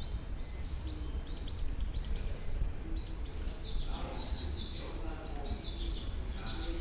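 A small bird chirping over and over, short high calls about three a second, over a steady low rumble.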